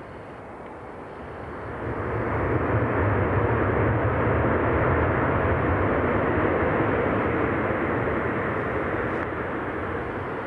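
Jet engines of a large military transport aircraft passing by. The noise swells about two seconds in, holds for several seconds, then slowly fades.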